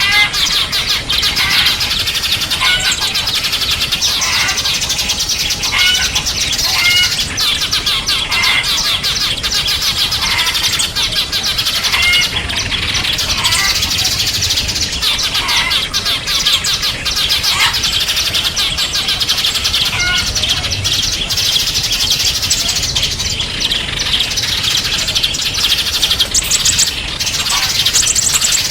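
A chorus of small songbirds chirping densely and continuously: many overlapping high twitters, with clearer separate short notes coming through every second or so.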